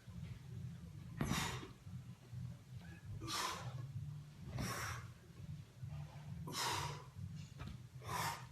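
A person breathing hard with exertion, sharp noisy breaths every second or two, over a low steady hum.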